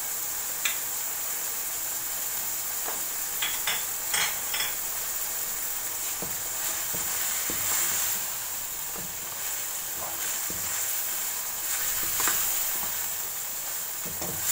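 Minced beef sizzling steadily as it fries in a wok, with a wooden spatula stirring and scraping it. The spatula gives short clicks and knocks against the pan now and then. Freshly added turmeric, crushed red chilli and salt are being mixed through.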